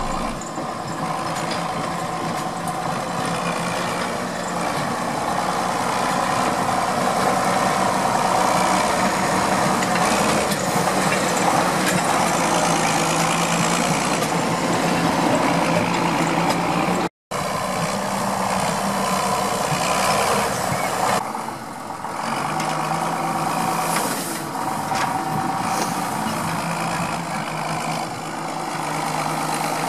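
John Deere 6910 tractor's six-cylinder diesel engine running steadily, cutting out for an instant about halfway through.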